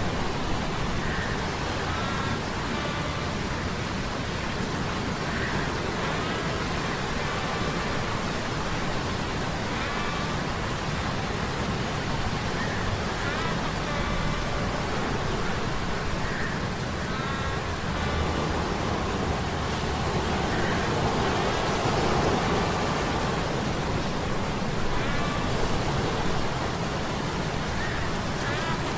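Steady sea-storm ambience: a rushing hiss of rain and surf over a low hum of metal gears, with faint short whining tones every few seconds.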